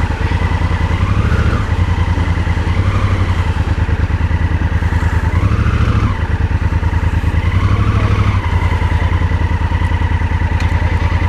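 Motorcycle engine idling with an even low beat, given small rises in revs every two or three seconds.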